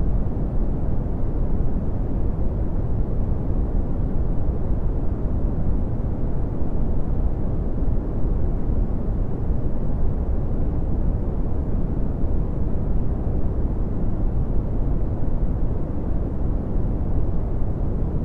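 Steady red (Brownian) noise: a constant deep rumbling hiss with most of its energy in the bass, falling away toward the treble, with no events or changes.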